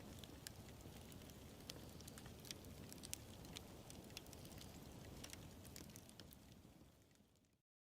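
Faint wood fire crackling: scattered sharp pops over a low rush of burning. It fades out near the end and stops.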